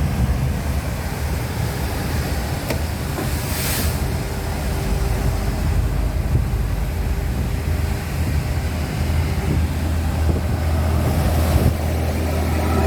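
Articulated truck driving on the road: a steady low engine drone with road and wind noise. A brief hiss comes about four seconds in.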